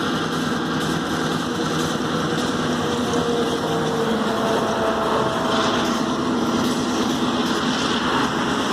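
Grand Trunk Western diesel locomotive 4632's engine running steadily.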